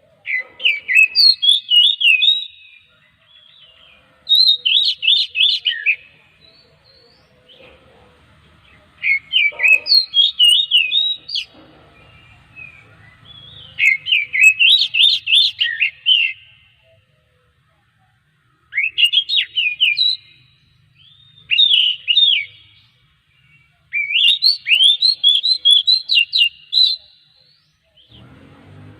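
Oriental magpie-robin singing in about eight quick phrases of rapid, sweeping notes, each phrase one to three seconds long, with short pauses between them.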